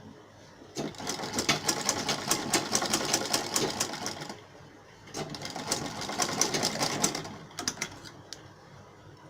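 Sewing machine stitching a seam in two runs of a few seconds each with a short stop between, then a few single stitches.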